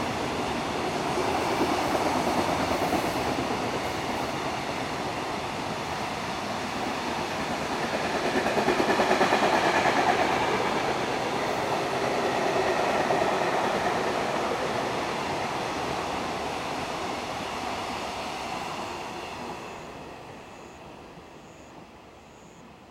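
A high-speed freight train's loaded container wagons passing through a station without stopping, their wheels running steadily over the rails. The noise fades away over the last few seconds as the tail of the train goes by.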